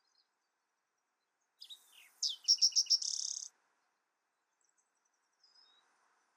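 A songbird singing one phrase: a couple of short opening notes, a quick run of about five clear high notes, then a brief buzzy trill. A faint single chirp follows near the end.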